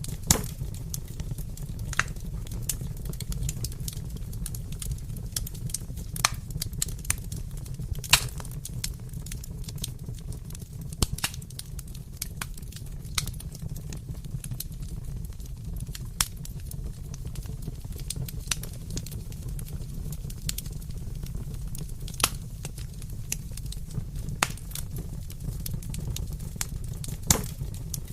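Fireplace fire crackling: sharp, irregular pops and snaps over a steady low rumble, a few pops louder than the rest.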